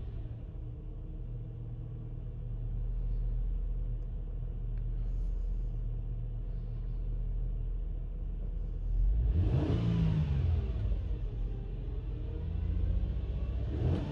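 2001 Mercedes ML320's 3.2-litre V6 idling while it warms up from a cold start, with a quick rev that rises and falls about nine seconds in and another near the end.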